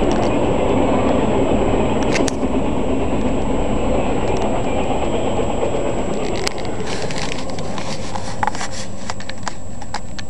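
Long intermodal freight train of RoadRailer trailers rolling past: a steady rumble of wheels on rail that eases slightly as the last trailers go by, with a scatter of sharp clicks through the second half.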